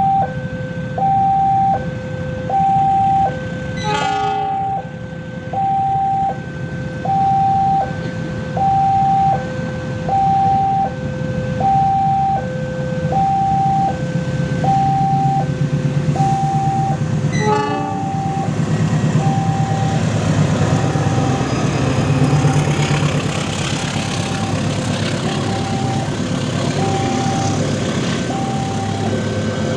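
A railway level-crossing warning signal repeatedly sounding two alternating tones, high then low, about every one and a half seconds. From about halfway through, a passing train's rumble and rail noise build up under it. Two short, sharp sounds stand out, one about four seconds in and one about seventeen seconds in.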